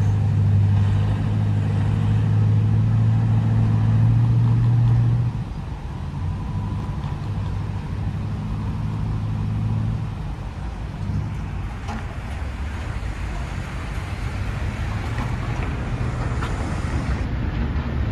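Freight train passing: a steady low diesel engine drone that drops away about five seconds in, followed by rolling rail-car noise that slowly builds toward the end.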